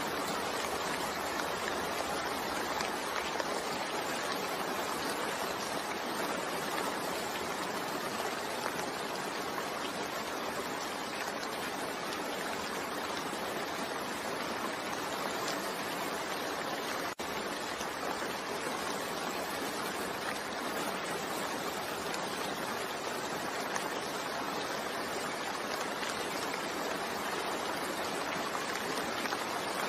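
Steady rainfall, an even continuous hiss, with a momentary dropout a little past the middle.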